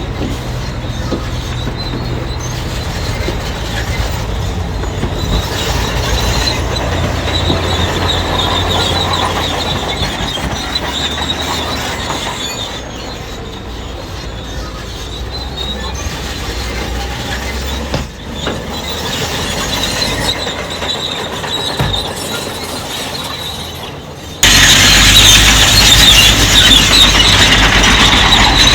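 Crawler bulldozer working, its diesel engine rumbling steadily while its steel tracks squeal and clank. About 24 seconds in the sound abruptly becomes much louder, with the squeal strongest.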